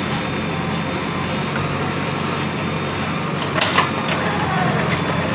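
JCB 3DX Plus backhoe loader's diesel engine running steadily, with a short sharp knock a little past halfway.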